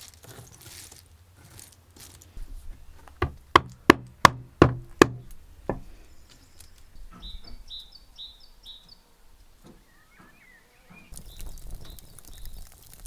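A quick series of about seven sharp knocks over two or three seconds. A bird follows with a short run of five or so repeated high chirps, then another brief call.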